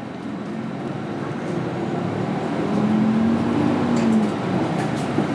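Nissan Diesel Space Runner RA bus's diesel engine heard from inside the cabin as the bus pulls away, growing louder with a drone that rises in pitch and then eases off.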